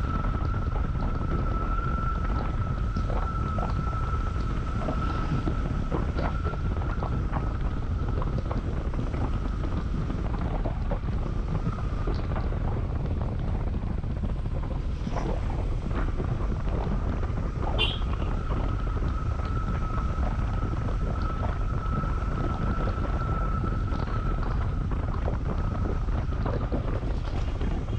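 Wind buffeting the action-camera microphone on a moving motorcycle, with the Honda CB150X's single-cylinder engine running steadily underneath. A thin steady whine runs through it and drops out for a few seconds around the middle.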